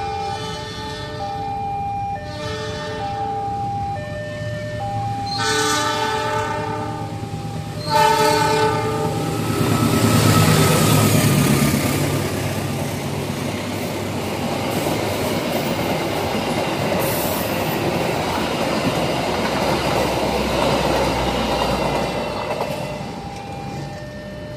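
An express passenger train sounds its horn in blasts as it approaches, over the repeating tones of a crossing warning signal. It then runs past at speed with a loud rumble and the clatter of wheels on the rails, which fades near the end.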